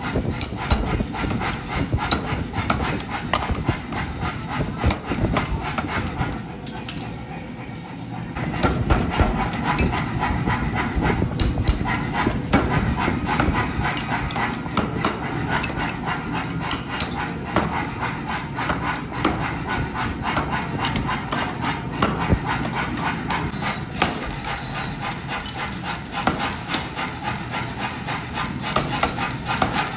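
Hammering on hot steel in forging: rapid, repeated blows on metal, with a short lull about six to eight seconds in.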